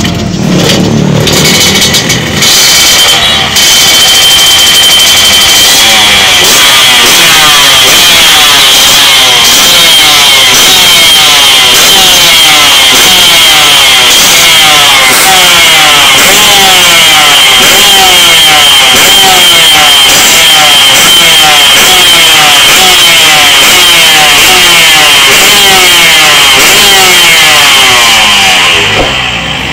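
Yamaha RX-King's 135 cc two-stroke single engine running hard at high revs, so loud that the recording distorts, with a steady high-pitched tone over it.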